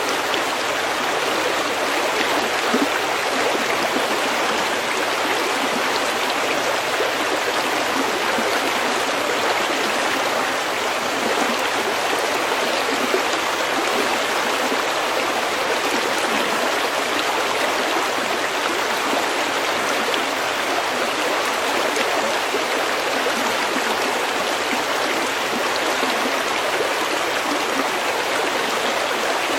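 Stream water flowing over pebbles, a steady even rush with no breaks.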